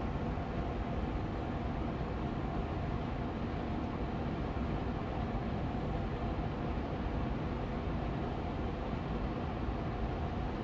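Austin Air Allergy Machine air purifier fan running steadily on medium speed: an even airy hum with a faint steady tone running through it.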